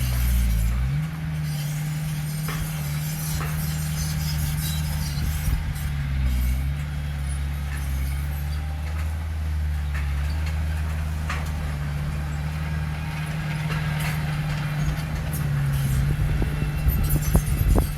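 Heavy diesel earthmoving machine's engine running steadily, its pitch dipping briefly a few times as the load changes. A few sharp metallic clanks come near the end.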